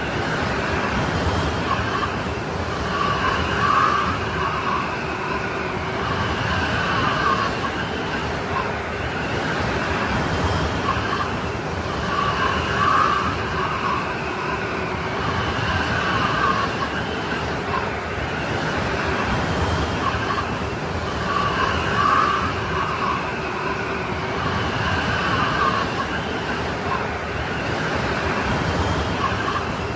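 Strong wind of a snowstorm: a steady rushing noise with a whistling howl that rises and fades in gusts every few seconds.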